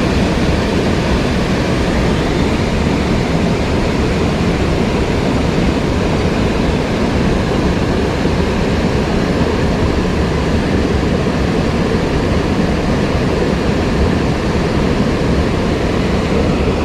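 Rushing mountain stream water: a steady, even wash of noise with no change.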